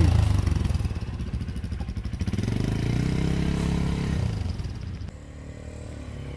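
Quad bike (ATV) engine running, revving up and easing off again through the middle, then dropping quieter about five seconds in.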